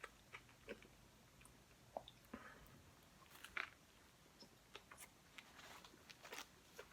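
Faint close-up chewing: scattered small wet clicks and crunches of a mouthful of food being chewed.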